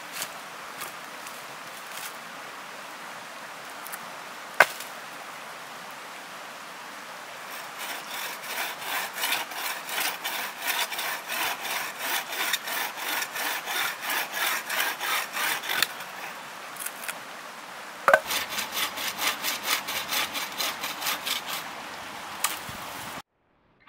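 Hand saw cutting firewood in quick back-and-forth strokes, about two or three a second, in two spells with a short pause between. A few sharp knocks come before the strokes, the loudest one just before the second spell, and the sound cuts off abruptly near the end.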